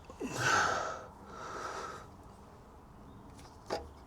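A man blows out one heavy, short voiced breath, then takes a softer breath. A short sharp click comes near the end.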